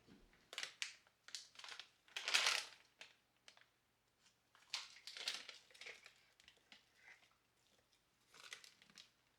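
Crinkling and rustling of something being handled, in a series of short bursts, the loudest about two and a half seconds in.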